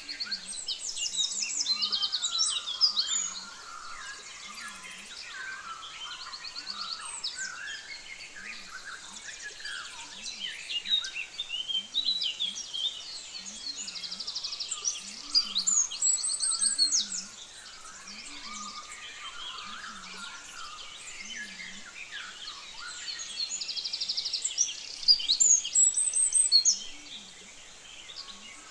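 Several songbirds singing and chirping together, with fast high trills breaking in now and then, loudest about two seconds in, around the middle and near the end.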